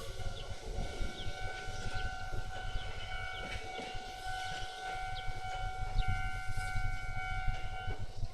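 Ex-Tokyu 7000 series stainless electric train pulling away. A steady whine comes from its drive over a low rumble.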